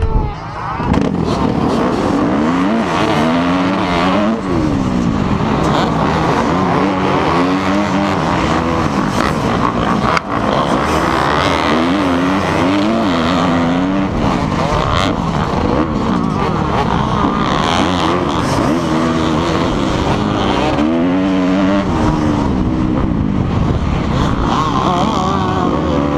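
Dirt bike engine revving hard, its pitch climbing and dropping again and again as the bike accelerates, shifts and backs off on the race course.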